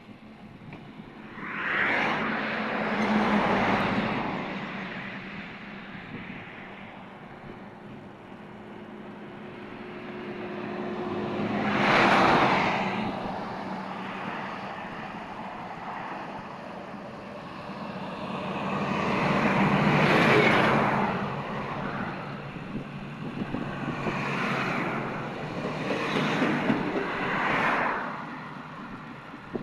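Road traffic passing on a highway: several vehicles go by one after another, each one's noise swelling up and fading away.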